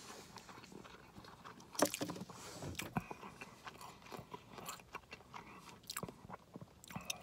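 Close-up chewing of a roast beef sandwich, with scattered wet mouth clicks and a louder bite about two seconds in.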